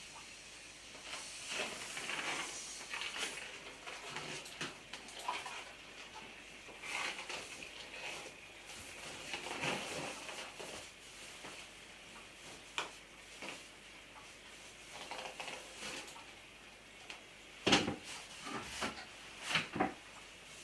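Oil-based marker rubbing and squeaking on the rubber of a giant inflated latex balloon in short, irregular strokes, with a few sharp taps near the end.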